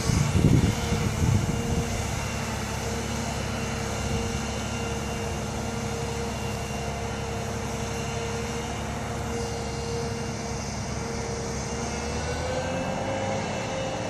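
Volvo A25D articulated water truck's diesel engine running steadily, rougher and louder in the low rumble for the first second or two. A steady whine rides over it and rises slightly in pitch near the end.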